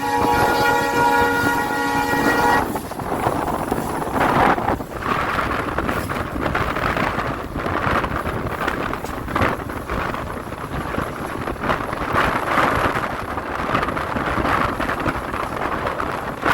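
Diesel locomotive horn sounding a chord of several tones, cutting off about two and a half seconds in; then the steady rumble and clatter of the train running on the track, with wind noise.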